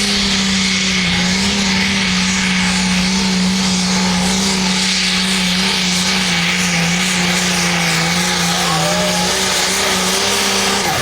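Hot Farm class pulling tractor's engine running at full throttle under load while it drags the weight sled: a loud, steady, high-revving drone whose pitch wavers slightly and drops right at the end as the throttle comes off.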